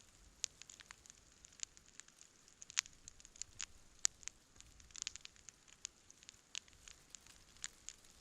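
Wood campfire crackling: irregular sharp pops and snaps over a faint hiss, with two louder pops about three and four seconds in and a quick run of snaps around five seconds.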